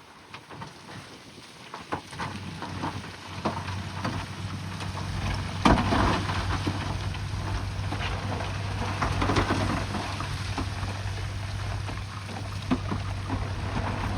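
Bulldozer's diesel engine running steadily, building up over the first few seconds, with rock crunching and clattering over it; the loudest crunch comes about six seconds in.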